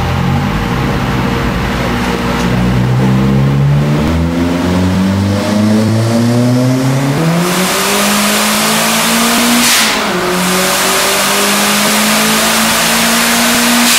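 Turbocharged Astra 2.0 8-valve four-cylinder engine at 0.8 bar boost pulling hard on a dyno, heard from inside the car. The revs climb repeatedly, with drops in pitch at gear changes. From about seven seconds in a loud rushing hiss runs under the engine, with a short sharp hiss at the shift near ten seconds.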